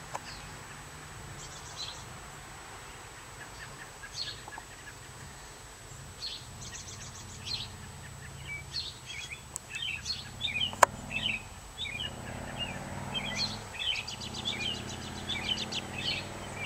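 Songbirds chirping and calling, sparse at first and busier in the second half, over a low steady background hum. A single sharp click sounds about eleven seconds in.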